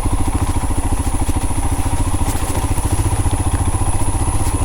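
Motorcycle engine running steadily, with a fast, even pulse.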